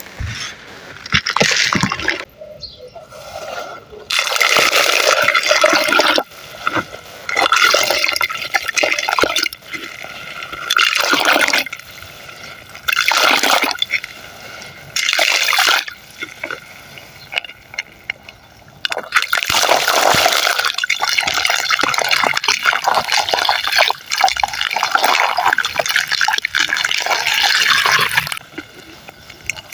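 Gritty hand-made sand-cement, wet and dry, crumbling in a run of short crunchy bursts, then a longer unbroken spell of crumbling in the second half.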